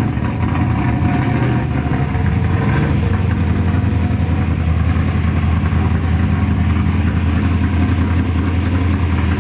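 A performance car's engine running steadily at low speed, a loud, even low drone with no big revs.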